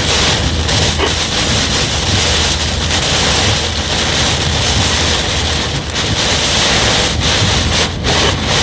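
Thunderstorm rain and wind making a loud, steady rushing noise.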